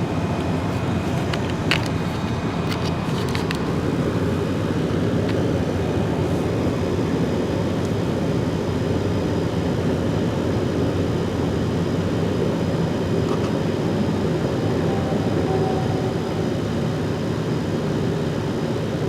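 Steady road and engine noise inside a moving car's cabin at highway speed, with a few light clicks about two to three seconds in.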